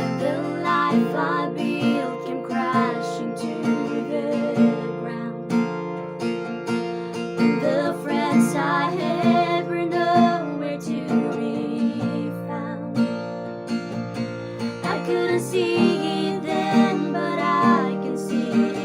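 Female voices singing a praise song to a strummed acoustic guitar.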